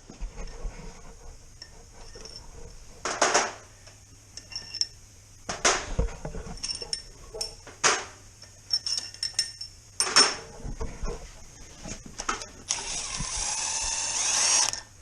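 Metal tools and parts clinking and clanking during hands-on mechanical work, with several louder clanks. Near the end a steady hiss swells for about two seconds and then stops abruptly.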